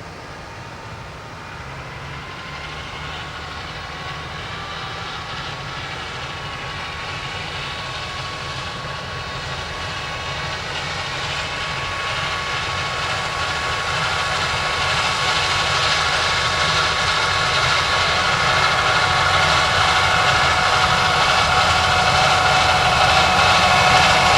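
A rack-railway vehicle approaching: a steady engine drone with several level whining tones, growing steadily louder.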